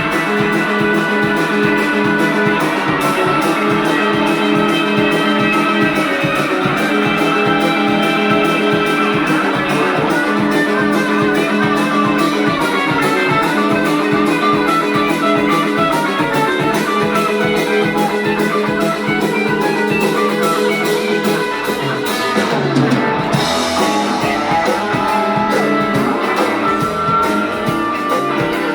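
Instrumental break in a rock song: electric guitar playing over a steady drum beat.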